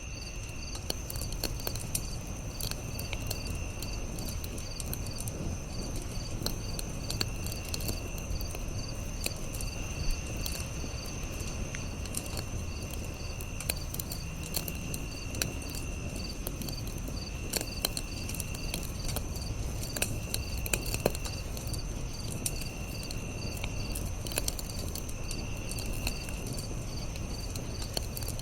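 Campfire crackling and popping, with scattered sharp snaps over a low, steady rumble of flame. Behind it, insects chirp steadily in a regular pulse about twice a second, joined now and then by short high trills lasting a second or two.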